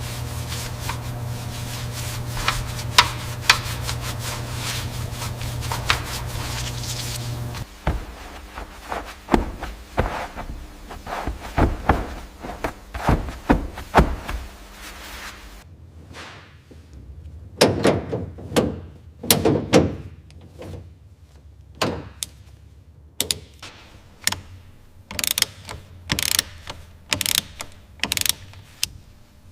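Mechanical workshop clatter: a steady low machine hum with clicks that stops about a quarter of the way in, then many irregular knocks and clicks of tools and parts being handled.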